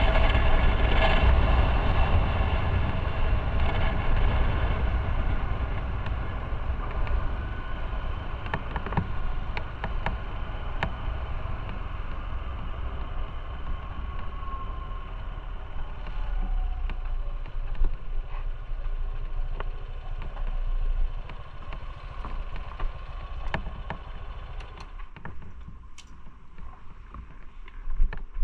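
Motorcycle engine running and slowing, its sound steadily fading. About three seconds before the end it drops away, and a few sharp clicks follow.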